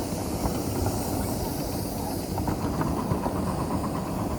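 A 7.5-inch gauge ride-on miniature train rolling along its track, with a steady rumble of wheels on rail, scattered light clicks and a constant hiss.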